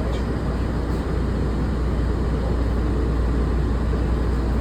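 Steady low rumble and hiss inside a Walt Disney World monorail car, the running noise of the train.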